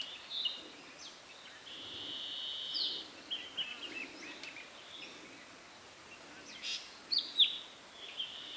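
Forest birds calling and whistling, with several short sweeping notes and one longer held whistle. Behind them a high, thin, steady tone runs in long pulses with short breaks.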